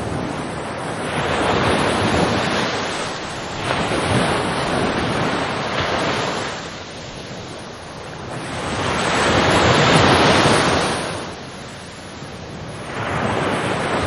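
Ocean waves breaking and washing in. The sound swells and fades in about four slow surges a few seconds apart.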